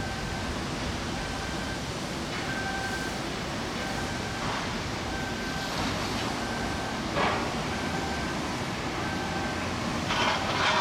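Shipyard work noise: a steady background din with a faint two-pitch warning beep repeating about once a second, and a few short bangs, the loudest near the end.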